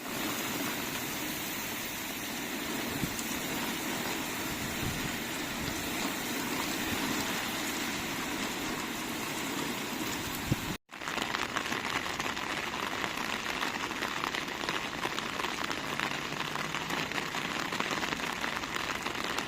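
Heavy rain falling steadily, a dense patter of drops. It breaks off for an instant about eleven seconds in and starts again with a crisper patter.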